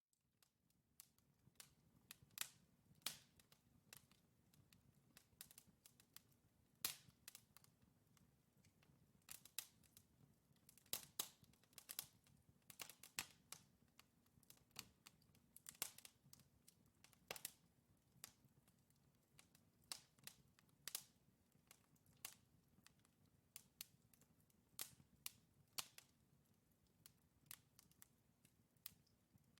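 Wood fire in a fireplace crackling: burning logs give irregular sharp pops and snaps, several a second at times, over a faint steady low rumble of the flames.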